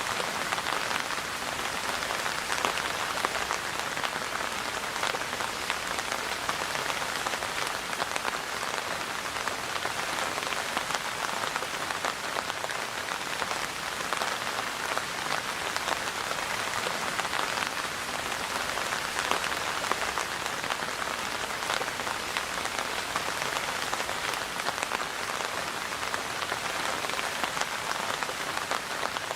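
Steady rain falling on a surface: an even hiss made of countless small drop impacts, unchanging throughout.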